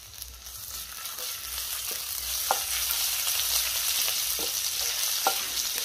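Cumin seeds, chopped green chillies and grated ginger sizzling in hot oil in a kadhai as they are stirred. The sizzle grows louder over the first couple of seconds, with a few light clicks of the stirring utensil against the pan.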